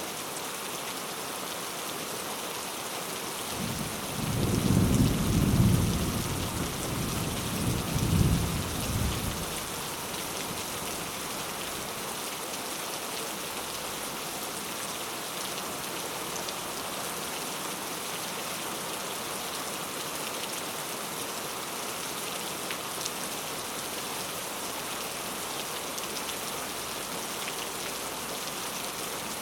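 Steady rain falling, with a roll of thunder about four seconds in that swells twice and dies away after about six seconds.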